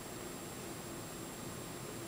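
Steady hiss of room tone and recording noise, with a faint thin high whine and a low hum held steady throughout.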